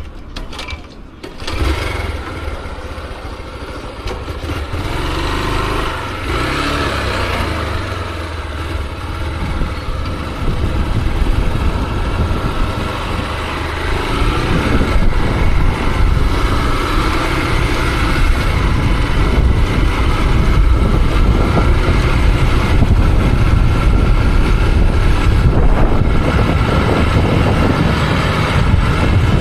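Motorcycle engine starting about a second and a half in, then running as the bike rides off, getting gradually louder.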